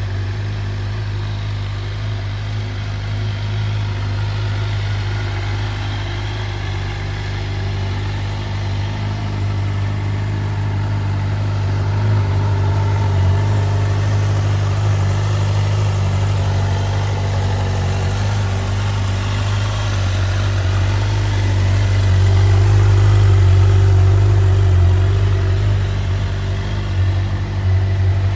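2013 Suzuki GSX-R750's inline-four engine idling steadily. It grows gradually louder through the second half and wavers near the end.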